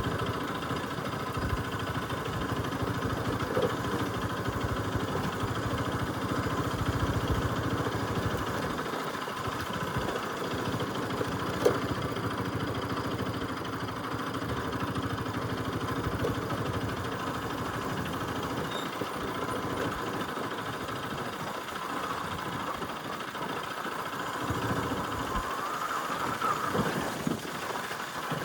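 Bajaj Pulsar RS200's single-cylinder engine running steadily at low speed on a dirt trail. A single sharp knock comes about twelve seconds in, and the engine pitch rises and falls briefly near the end.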